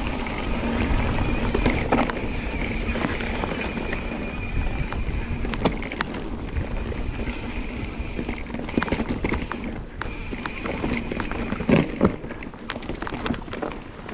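Mountain bike descending a rough, rocky trail: a steady rush of wind and tyre noise with frequent rattles and knocks from the bike, and a cluster of loud knocks about twelve seconds in.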